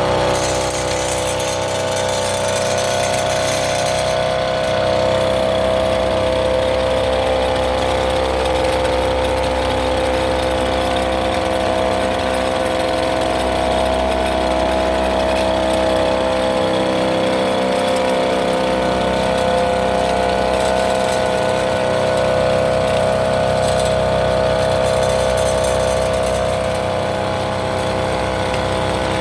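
Small engine of a farm monorail carrier running steadily at a constant speed, an even hum. It is the used replacement engine, running smoothly.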